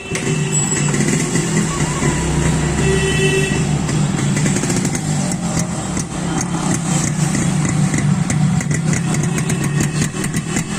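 Yamaha RX 135 two-stroke single-cylinder motorcycle engine running steadily, heard at the exhaust. From about six seconds in, a rapid popping of exhaust pulses stands out.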